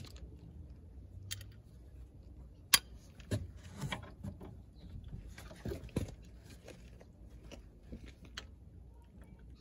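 Scattered metallic clicks and knocks of a socket and breaker bar working on the brake caliper carrier bolts as they are done up tight. The sharpest click comes a little under three seconds in.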